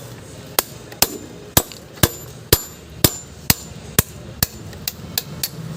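Hammer blows knocking the shaft out of a burnt-out ceiling fan's old winding core: about a dozen sharp metallic strikes, roughly two a second, coming a little faster near the end.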